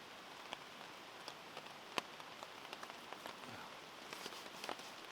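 Rain falling: a steady hiss with scattered single drops ticking, one sharper drop about two seconds in.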